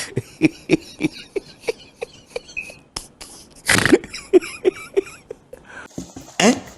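A person's mouth and throat noises, not words: a run of short clicks and grunts about three a second, broken by a few loud breathy hisses.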